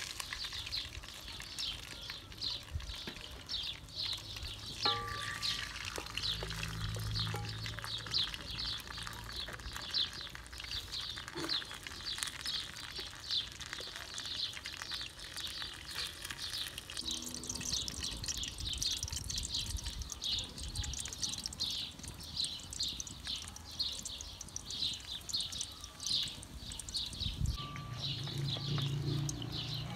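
A bird chirping a repeated high note about twice a second, over pirashki frying in oil in a pan over a wood fire.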